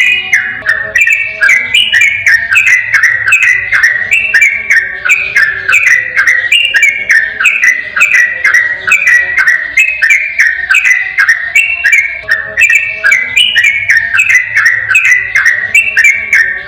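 Yellow-vented bulbul (trucukan) singing a rapid, unbroken run of short bubbling phrases, about three a second, with no pauses.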